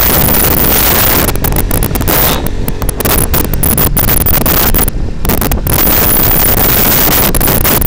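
Loud wind rushing over the microphone on a moving motorcycle, with the ride's vehicle noise underneath; the rush eases briefly twice.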